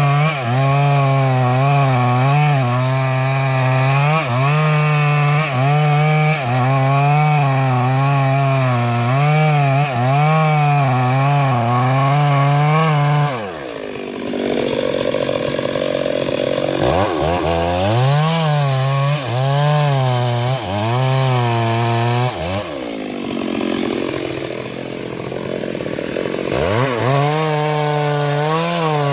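Stihl MS382 two-stroke chainsaw running at high revs while cutting wood, its engine note wavering under load. About halfway through, and again near three-quarters of the way, the revs sag and then climb back.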